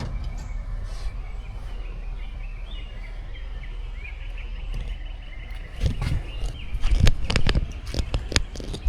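Birds chirping over a steady low rumble, with a run of sharp knocks and thumps about six to eight seconds in.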